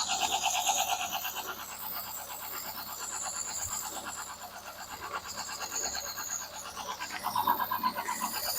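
Ford 2.0 Pinto four-cylinder engine idling at just under 1,000 rpm, a steady, fast, even pulsing.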